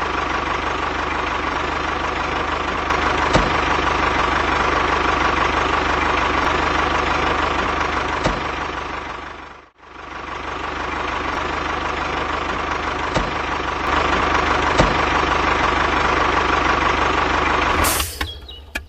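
Steady engine-like running of a small machine, even and unchanging. It briefly fades out and back in about halfway through. Acoustic guitar music starts right at the end.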